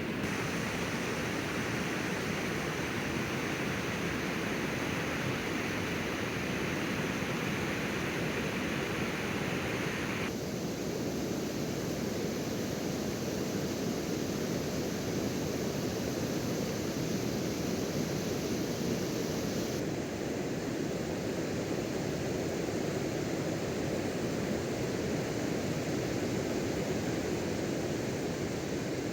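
Steady rush of flowing river water, its tone shifting abruptly twice.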